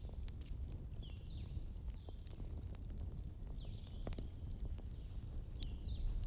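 Wood campfire burning with a steady low rumble and scattered sharp crackles and pops. Over it comes a bird's short high calls, each dropping in pitch, about half a dozen times, with one longer, higher call near the middle.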